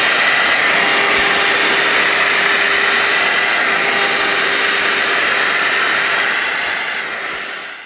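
Handheld cordless vacuum cleaner running steadily, a motor whine over the rush of air, fading out near the end.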